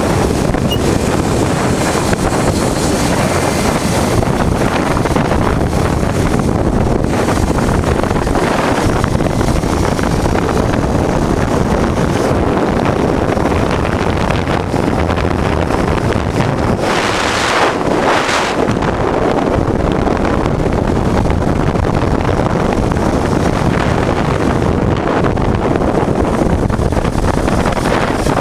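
Wind rushing over the microphone of a motorcycle riding at speed, a steady loud roar of noise with a brief louder gust about two-thirds of the way through.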